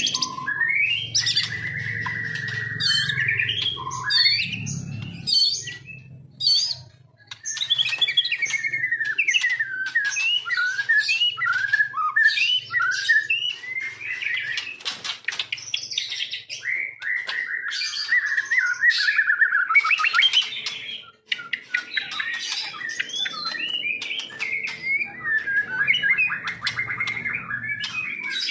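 White-rumped shama singing a long, varied song of rapid trills, whistled notes and sharp chirps, with short pauses about 7 seconds in and about 21 seconds in. A low rumble sits under the first few seconds.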